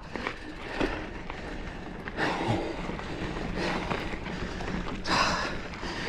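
Giant Fathom mountain bike rolling over a rooty dirt trail: steady tyre rumble with small rattles and clicks from the bike, and the rider's hard breaths about every second and a half after a steep climb.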